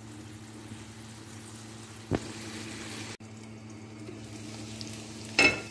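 Muthiya frying gently in oil in an iron kadhai, a faint steady sizzle over a low hum. A soft knock comes about two seconds in, and near the end a steel lid clinks with a brief ringing against the pan as it is handled.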